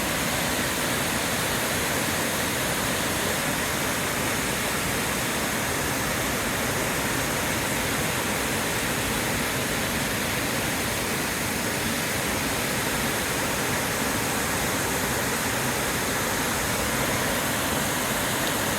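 Waterfall crashing down into a gorge: a steady, loud rush of falling water.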